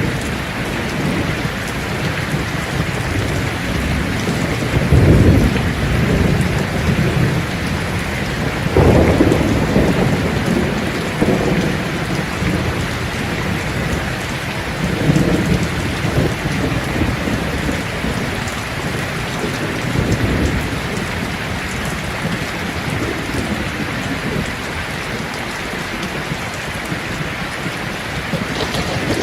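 Steady heavy rain with low rolls of thunder that swell and fade several times, the strongest about five and nine seconds in.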